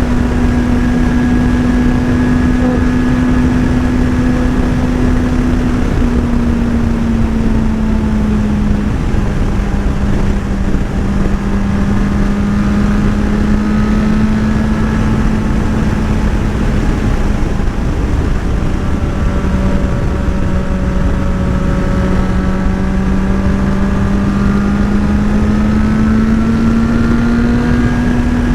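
Motorcycle engine running at a steady cruise, its pitch dropping slightly about six seconds in and rising again near the end, with wind rushing over the microphone.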